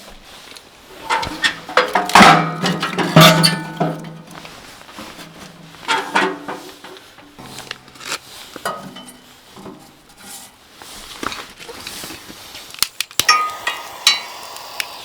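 Scattered clinks and knocks of dishes and utensils being handled, some with a short ring, loudest in a cluster about two to four seconds in.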